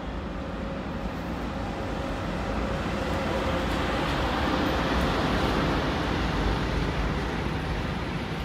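SNCB electric locomotive and its passenger coaches rolling past on the adjacent track, a steady rumble of wheels on rail with a faint steady hum, growing louder to about halfway as the locomotive goes by, then easing slightly as the coaches follow.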